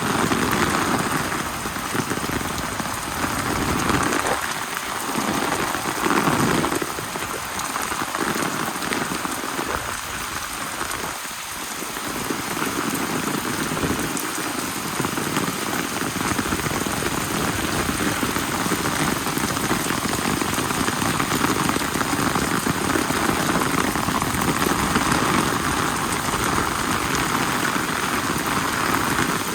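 Steady rain falling, an even hiss that swells a little now and then.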